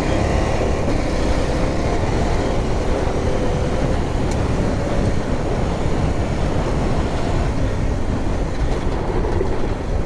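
Motorcycle engine running steadily under way on a rough track, mixed with dense wind and road noise.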